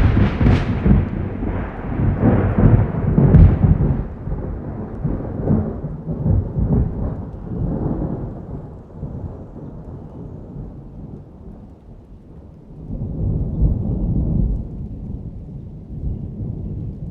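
Thunder over rain: a loud peal with sharp cracks and deep rumbling in the first few seconds, slowly rolling away, then a second rumble swells and fades near the end.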